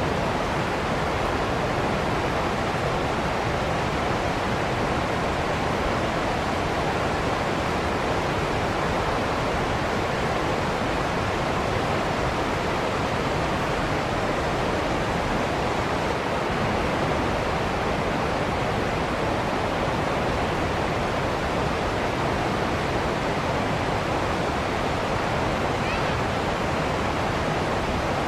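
Waterfall pouring, a steady even rush of falling water with no change in level.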